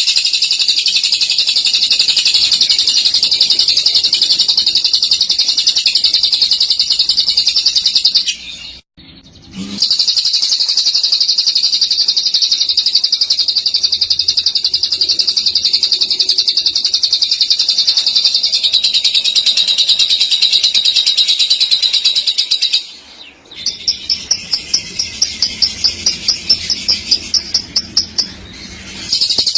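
Lovebird singing its long, rolling 'ngekek' chatter, a dense high-pitched trill. It breaks off briefly about nine seconds in. Near the end it pauses again, gives a run of quick separate chirps at about five a second, then goes back to the continuous trill.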